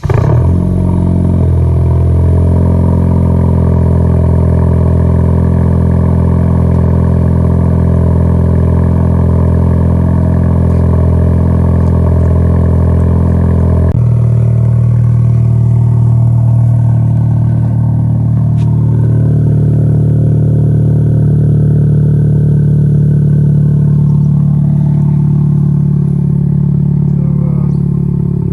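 Honda Civic hatchback's 1.5-litre turbo four-cylinder idling loud and steady just after a cold start, through a muffler and resonator delete with blast pipes. Its note changes abruptly about fourteen seconds in, then holds steady again.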